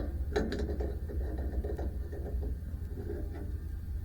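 Hand work on a band sawmill's blade wheel and tensioning hardware during a blade change: a run of irregular metal clicks and knocks, the loudest about half a second in, over a steady low hum.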